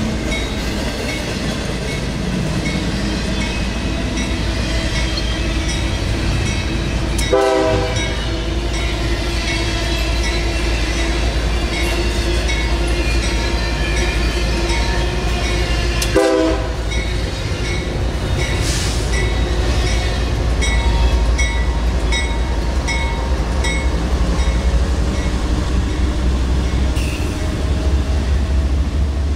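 Intermodal freight train passing close by behind CSX GE diesel locomotives: a steady deep engine rumble with wheel and rail noise. Two short horn blasts sound, one about seven seconds in and another about sixteen seconds in, and regular clicking of wheels over the rails comes in the second half.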